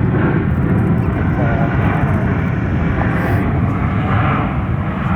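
Jet airliner engines running: a steady, loud rumble.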